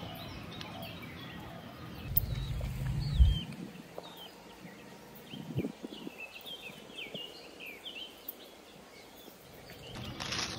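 Small birds chirping, with many short calls throughout. A low rumble is louder from about two to three and a half seconds in, and there are a few soft knocks around five and a half seconds.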